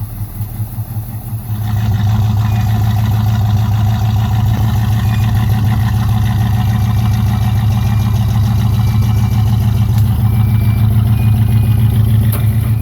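Freshly rebuilt Pontiac 400 V8 in a 1969 Firebird, running at low speed with an uneven pulse, then pulling away under load about two seconds in and holding a steady drone as the car drives on.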